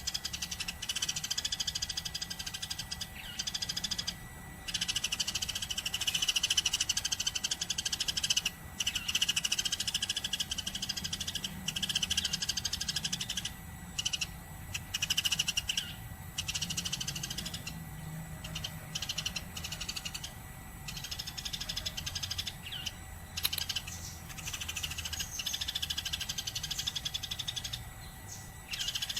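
Eurasian tree sparrows chirping and chattering rapidly, almost without pause, broken only by brief gaps.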